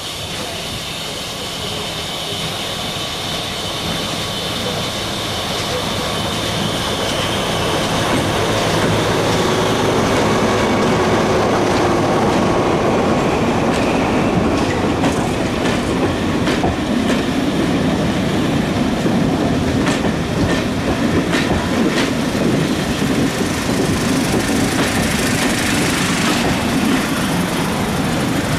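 Diesel passenger train approaching and passing close by at low speed. Its engine and running gear grow louder over the first ten seconds or so, then the coaches roll past with a low rumble and a run of sharp clicks as the wheels cross the rail joints.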